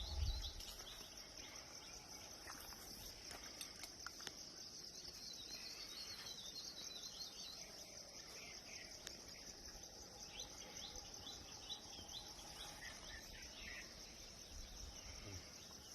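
Steady high-pitched chirring of insects, with scattered short bird chirps over it and a low thump right at the start.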